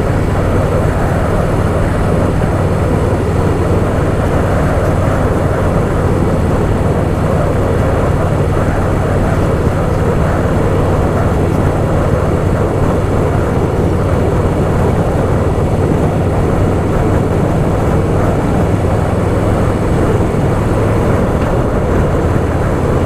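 Harley-Davidson Softail Fat Boy's air-cooled V-twin engine running steadily while the motorcycle cruises, heard from the bike itself with road and air noise.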